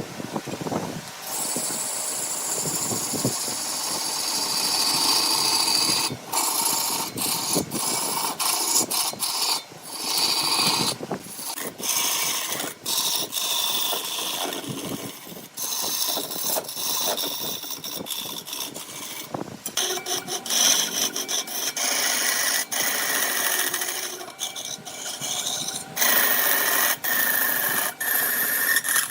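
Turning tool cutting wood spinning on a lathe: a scraping hiss, broken by many abrupt short gaps and sudden changes in tone.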